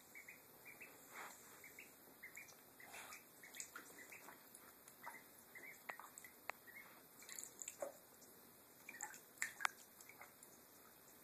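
Ducklings paddling and dabbling in shallow bathtub water: faint, scattered small splashes and drips, with a few sharper clicks near the middle and a cluster of louder splashes about nine to ten seconds in.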